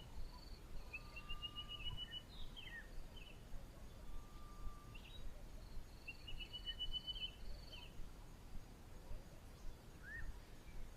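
Wild birds calling faintly over a low outdoor background rumble: two rapid runs of short, evenly spaced notes at a fairly steady pitch, about a second in and again about six seconds in, with a few short slurred notes between.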